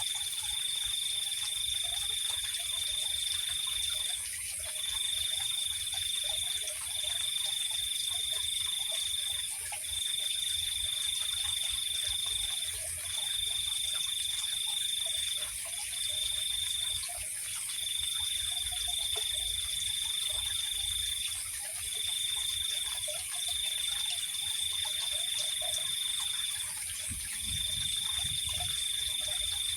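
Night-time insect chorus: one insect trills on a single high pitch in long runs of one to four seconds broken by short pauses, over a constant higher-pitched insect drone, with faint low chirps scattered underneath.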